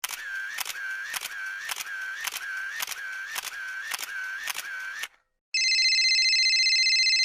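Two comedy sound effects in a row. First a repeating click with a short chirping tone, about twice a second for some five seconds. Then, after a brief gap, a steady, harsh electronic buzz for about two seconds.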